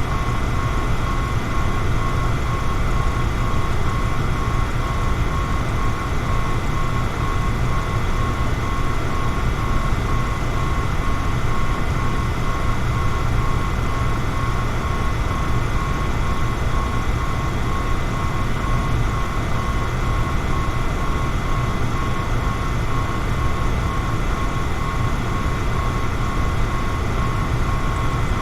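Electric fan running steadily: a constant rush of air noise, heaviest in the low end, with a thin steady whine over it.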